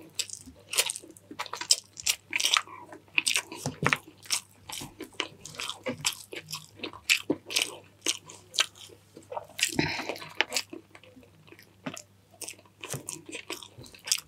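Close-miked sounds of a person eating: chewing and biting with many wet mouth clicks and crunches, irregular and without pause, with a heavier bite about ten seconds in.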